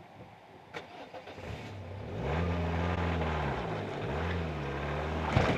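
An engine runs from about two seconds in, its pitch rising and falling twice as it revs up and down. There is a sharp click early on and a knock near the end.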